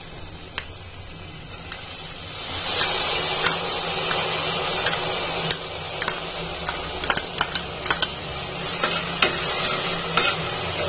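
Soaked rice and moong dal sizzling as they drop into hot ghee and vegetables in a stainless steel pressure cooker, the sizzle getting louder about two and a half seconds in. A steel spoon clicks and scrapes against the pan and bowl as the mix is stirred, in quick clinks through the second half.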